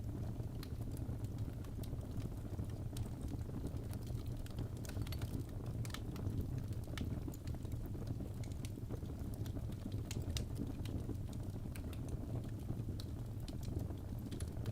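Wood fire crackling: scattered sharp pops and snaps, irregularly spaced, over a steady low rumble.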